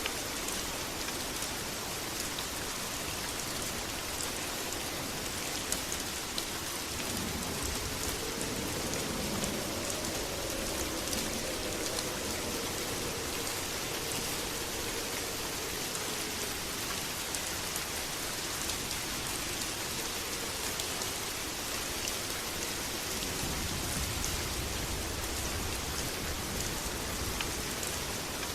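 Steady heavy rain, with a dense patter of drops on surfaces. A low rumble swells and fades in the middle, and more low rumbling comes near the end.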